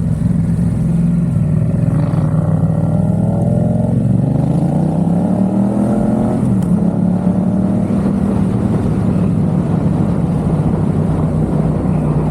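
Yamaha XSR700's parallel-twin engine through a MiVV aftermarket exhaust, accelerating through the gears. The revs climb from about two seconds in, drop at a gear change near four seconds, climb again to about six and a half seconds, then settle into steady running.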